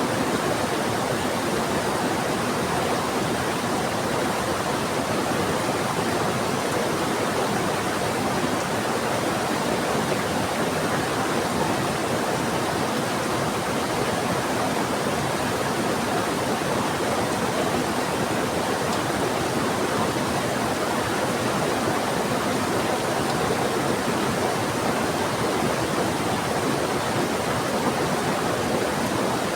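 Fast-flowing river rushing steadily under heavy rain: an even, unbroken roar of water.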